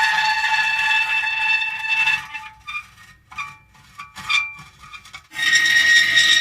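Metal creaking and squealing. A sustained squeal of several steady pitches lasts about two seconds, then breaks into a few short scattered creaks and ticks, and a second sustained squeal starts about five seconds in.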